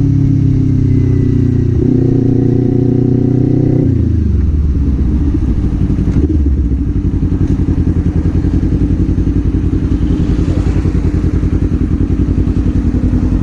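Kawasaki Z400 parallel-twin engine running at steady revs, then about four seconds in the revs drop off and it settles into a low, pulsing low-rpm beat.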